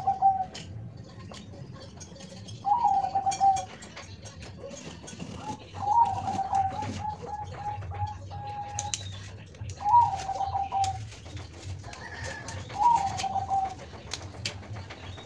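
Zebra dove (perkutut) cooing, five calls a few seconds apart. Each call opens with a quick drop in pitch and holds a note; the middle one runs on into a quick string of short repeated notes. Scattered light clicks and knocks sound underneath.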